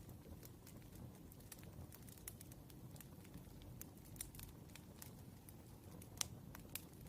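Wood fire crackling faintly: scattered small pops and snaps over a low steady rumble, with one sharper pop about six seconds in.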